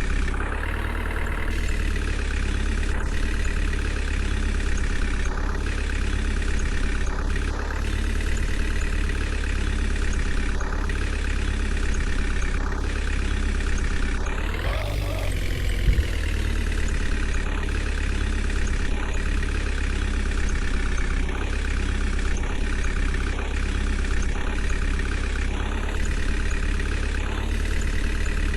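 JCB 3DX backhoe loader's diesel engine running steadily. About halfway through it revs up and drops back as the machine works, with a brief knock just after.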